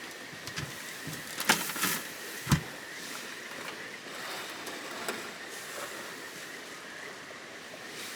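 Wood campfire crackling, with scattered small clicks and a few sharper pops between about one and a half and two and a half seconds in, the last with a dull thump, over a steady outdoor hiss.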